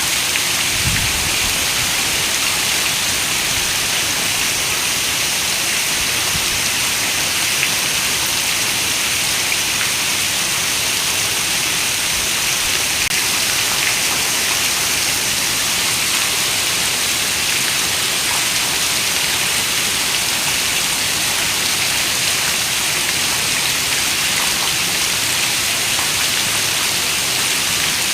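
Heavy rain falling steadily, a dense even patter on a window.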